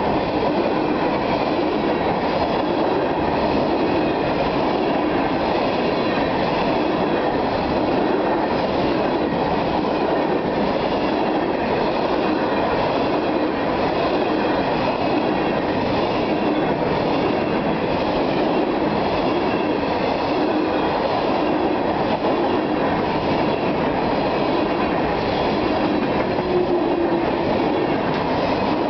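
Freight train of steel hopper cars rolling past close by: a steady rumble of wheels on rail with a regular clickety-clack of the wheels over rail joints.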